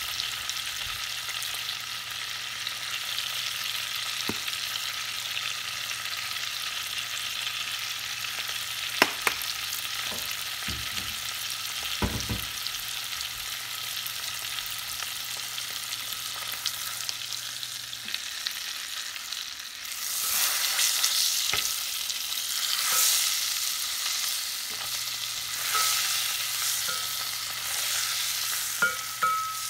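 A tuna steak sizzling in butter in a ceramic-coated pot, a steady frying hiss with a few sharp clicks. In the last ten seconds the sizzle comes in louder, uneven surges as the steak is turned over with a spatula and knife.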